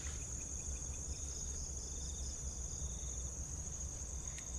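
Night insects, crickets among them, chirping: a continuous high trill with shorter rows of pulsed chirps over it, above a steady low rumble.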